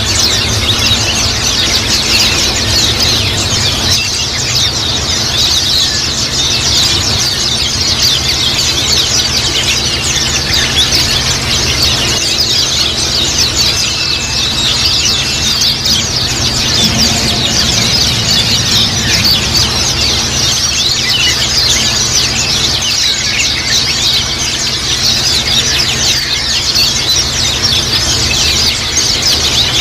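A flock of white-eyes chirping and twittering without pause, many short, high calls overlapping densely. A steady low hum runs underneath.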